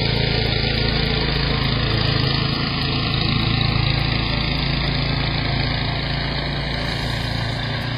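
A motor or engine running steadily, a low droning hum under a broad rushing noise.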